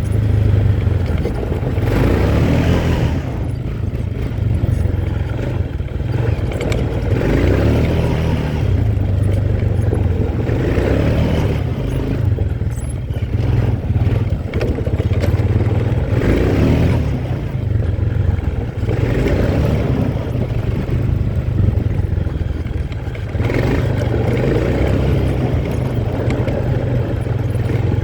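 Quad bike engine running as it is ridden, a steady low hum with a rushing noise that swells and fades every few seconds.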